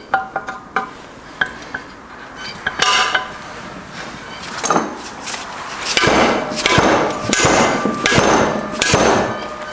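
Metal tools knocking on a Subaru six-speed transmission's aluminium case to free a stuck steel part. First come light, ringing taps. From about halfway there is a run of heavier, harsher strokes, about one every 0.7 seconds.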